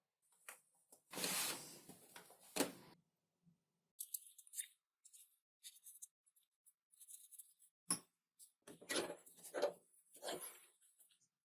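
Close-up craft-work sounds from building a foam model: scissors snipping and material rustling and scraping in several short, separate bursts, the longest about a second in.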